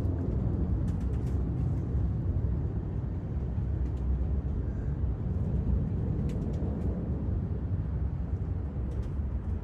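Wind buffeting the microphone outdoors, a steady low rumble, with a few faint ticks.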